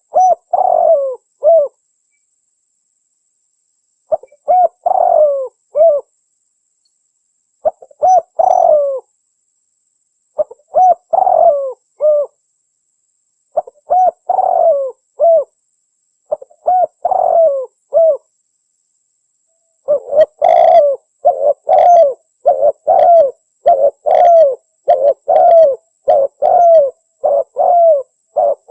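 Spotted dove cooing: short phrases of a few coos repeated every few seconds, then from about two-thirds of the way in the phrases come quicker, one after another, almost without pause.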